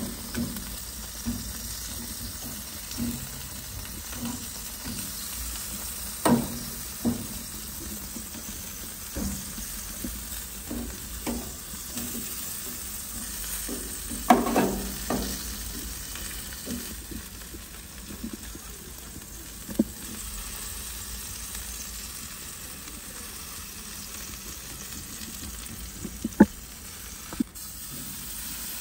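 Food frying in a pot with a steady sizzle while it is stirred, the utensil knocking against the pot at irregular moments: a cluster of louder knocks about halfway and a sharp one near the end.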